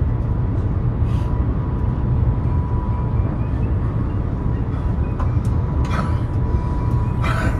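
High-speed train running at speed, heard inside the passenger car: a steady low rumble with a faint steady whine. Three short clicks come through, the loudest near the end.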